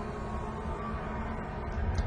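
NASCAR stock cars' V8 engines running at speed, a steady dense sound of the racing field heard on the television broadcast.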